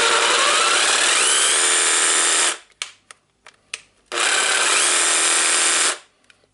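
Hikoki cordless jigsaw with a newly fitted replacement motor running on test, showing the tool works again. It stops about two and a half seconds in, a few clicks follow, and it runs again for about two seconds. A whine rises steadily in pitch during the first run.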